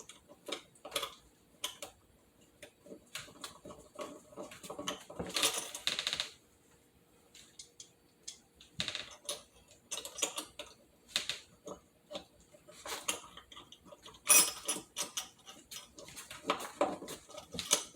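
Irregular small metallic clicks and rattles of screws and blind-mounting hardware being handled and fitted, with denser bursts of clicking about five seconds in and again near the end.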